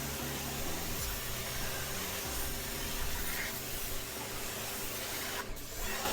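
Pressure washer spraying: a steady hiss of the water jet that dips briefly near the end.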